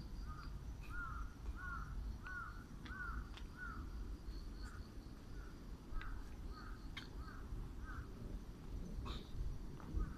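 A bird calling in a quick string of short, repeated harsh notes, about two or three a second, loudest in the first few seconds and then fainter. Fainter high chirps and a few light clicks sound over a low outdoor rumble.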